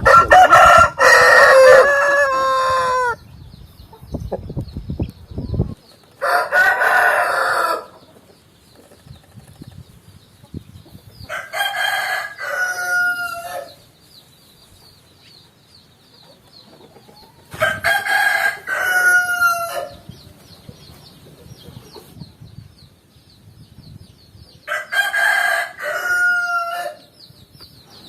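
A rooster crowing cock-a-doodle-doo five times, about six seconds apart; the first crow is the loudest and longest.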